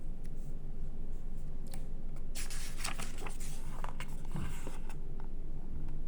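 Magazine pages being handled and turned: a cluster of short papery rustles and clicks in the middle, over a steady low hum.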